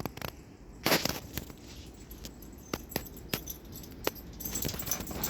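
Gusty wind rumbling on the microphone, with scattered sharp clicks and knocks, the loudest about a second in.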